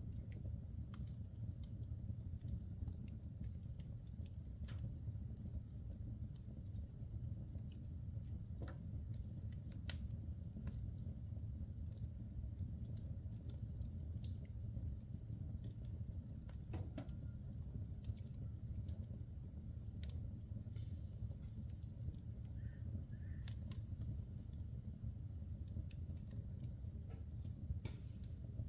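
Wood fire burning in a fireplace, crackling with scattered sharp pops of burning logs over a low, steady rush of the flames; one louder pop about ten seconds in.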